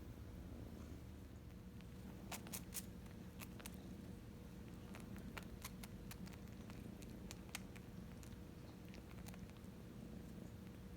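A kitten purring steadily and faintly, with scattered small clicks and smacks from about two seconds in.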